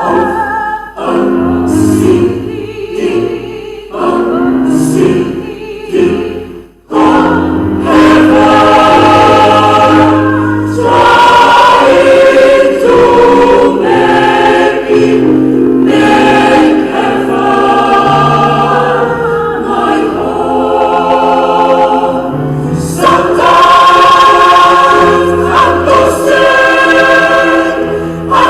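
Small church choir singing in parts. The voices break off briefly about a quarter of the way in, then come back in fuller and louder.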